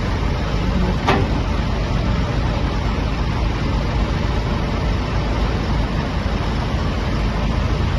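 Backhoe loader's diesel engine running steadily, with one sharp click about a second in.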